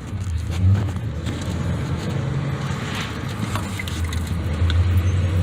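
Car engine running with road noise, heard from inside the cabin, a steady low hum.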